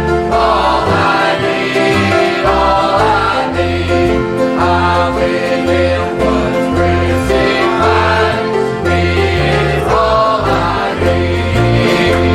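Gospel music with group singing over instrumental accompaniment, a steady bass line moving under held chords.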